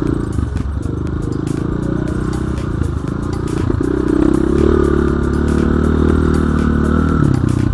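Dirt-bike engine running under load, revving harder from about four seconds in and easing off near the end, with light clatter over it.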